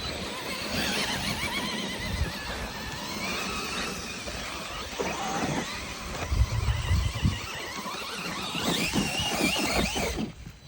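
RC trucks' motors whining at high pitch, the pitch wavering up and down with the throttle, with gusts of wind rumbling on the microphone. The sound cuts off sharply near the end.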